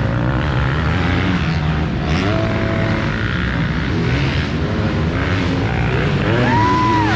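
Several motocross dirt bike engines racing, revving up and down through the gears. Near the end one bike climbs to a high held note and then drops away.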